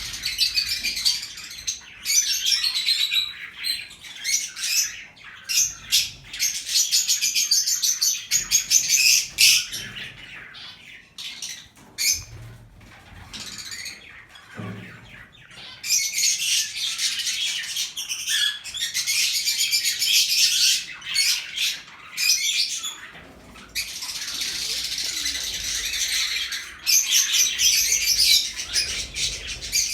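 A cage of birds chattering and chirping densely, with a quieter, sparser spell about ten to fifteen seconds in before the chatter builds again.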